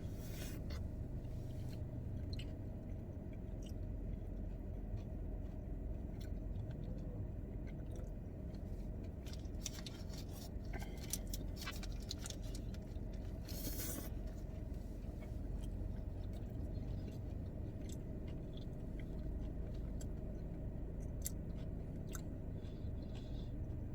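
Close-miked chewing of burgers, with scattered small wet clicks of mouths, over a steady low hum.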